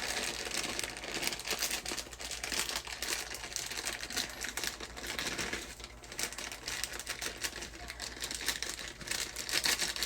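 Plastic food packaging crinkling continuously as it is handled and opened, with many quick crackles.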